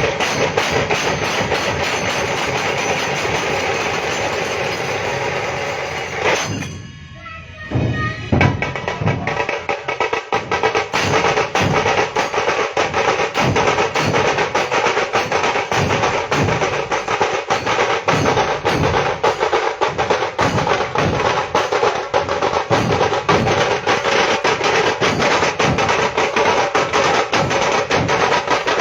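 Loud percussion music of fast, rolling drum strokes that breaks off briefly about six seconds in, then comes back with heavier low drum beats under the rapid strokes.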